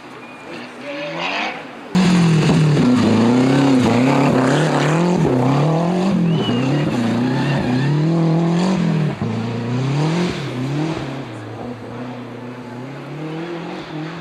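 Rally car engine revving hard, its pitch climbing and dropping over and over as it is driven through the gears along a stage. It becomes suddenly much louder about two seconds in and eases off near the end.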